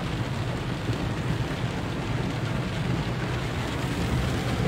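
Steady heavy rain and rushing floodwater, an even wash of noise with a constant low rumble underneath.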